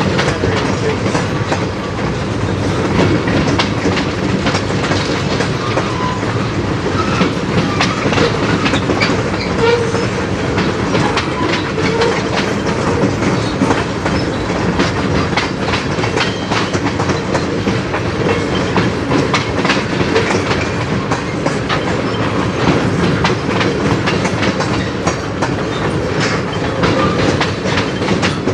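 Freight train rolling past, its cars' wheels clicking and clattering over rail joints in a steady stream, with a low rumble and the odd squeal of metal on metal.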